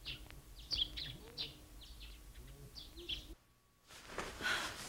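Small birds chirping in short, repeated high calls, which stop suddenly about three seconds in. Near the end a quilt rustles as it is spread and smoothed over a bed.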